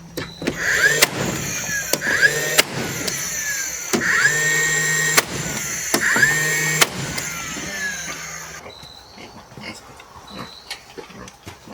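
A hand-held electric power tool, run in short bursts about four times. Each time its motor whine rises quickly in pitch, holds briefly, then stops with a click and winds down; the bursts end about eight seconds in.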